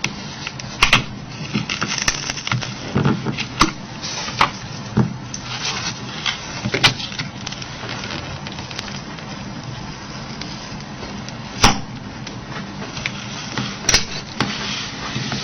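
Scattered sharp clicks and taps from small hand tools and phone parts being handled during disassembly, over a steady low hum. About six distinct clicks, spaced irregularly.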